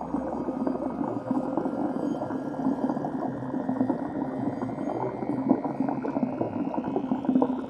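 Water bubbling and churning, a dense steady noise with no break.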